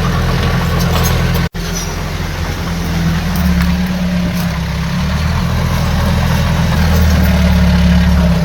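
Heavy diesel earthmoving machinery running steadily, growing a little louder and deeper after about three seconds. The sound drops out for an instant about a second and a half in.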